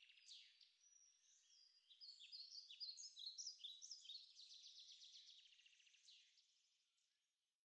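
Faint songbirds singing: rapid trills mixed with short chirps and whistled slides, fading out near the end.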